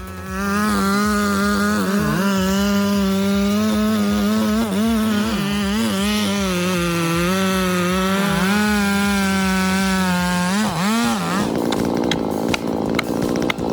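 Zenoah two-stroke chainsaw running near full throttle, its high engine note dipping and recovering again and again as the chain bites into wood. Near the end the engine note drops away and a rough crackling noise with sharp clicks takes over.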